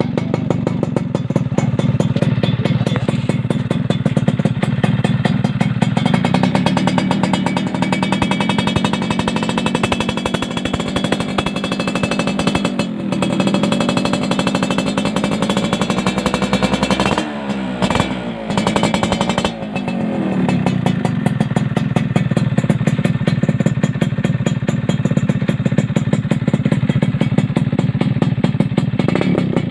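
Yamaha F1ZR Force1's 110 cc two-stroke single-cylinder engine running at idle through a black bulged racing exhaust. Its revs rise and fall once about 13 seconds in, and the throttle is blipped several times between about 17 and 20 seconds in before it settles back to idle.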